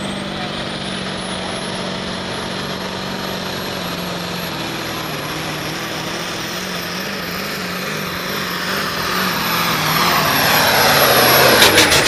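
Turbocharged diesel engine of a Pro Farm class pulling tractor running hard under full load, with a high turbo whistle that climbs over about the first second and then holds. The engine gets louder over the last few seconds.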